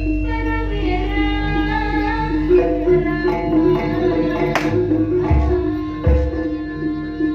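Live Javanese jaranan gamelan music: hand-drum strokes and a held low tone under a bending, sung or reed-like melody line.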